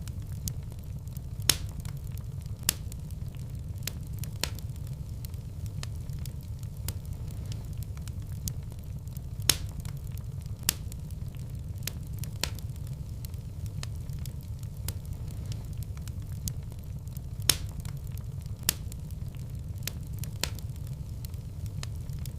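Wood fire burning in a fireplace: a steady low rumble with irregular sharp crackles and pops, three of them louder than the rest, the first about a second and a half in.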